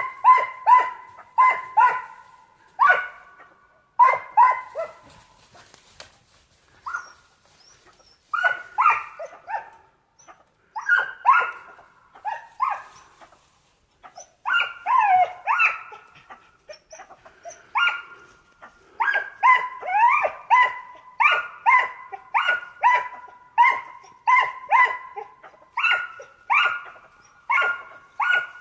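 Yellow-throated marten giving short, repeated barking calls, often two or three in quick succession, with a frog-like sound. The calls stop for a few seconds twice, then come thick and fast in the second half.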